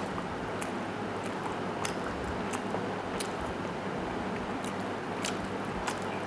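Close-miked wet chewing of soft rice and chicken stew, with irregular sharp mouth clicks and smacks about every half second to second over a steady hiss.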